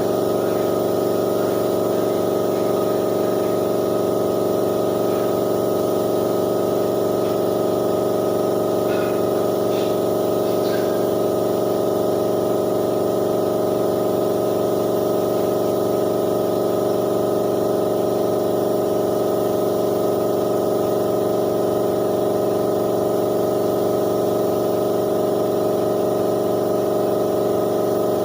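Steady hum of running power equipment in a paint-finishing job: a motor drone of many fixed tones with a hiss over it, unchanging throughout, with a few faint short clicks about ten seconds in.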